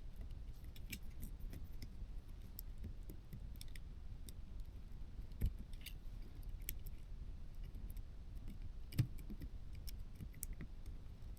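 Faint, scattered clicks and light taps of small parts being handled while the opened drone's loose internal cables are tucked into place, with two slightly louder knocks about five and a half and nine seconds in.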